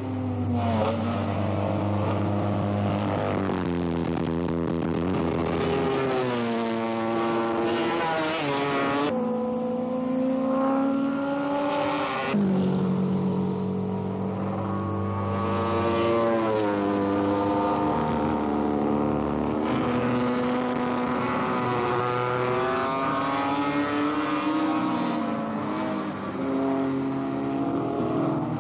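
Several racing motorcycle engines revving hard as the bikes pass, the pitch climbing through each gear and dropping sharply at the shifts again and again, with more than one bike heard at once.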